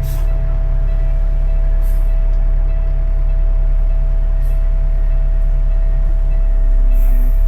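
Caterpillar C-15 diesel engine in a dump truck running steadily with a deep drone and a constant thin whine over it, swelling slightly near the end.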